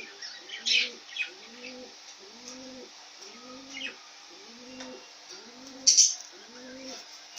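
Birds calling: a steady run of low, arching coos repeating about every 0.8 seconds, with short high chirps over them. The loudest chirps come a little under a second in and again near six seconds.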